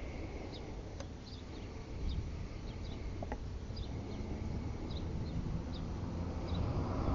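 Small birds chirping in short repeated calls over a steady low background rumble, with a couple of sharp clicks. Near the end a passing vehicle grows louder.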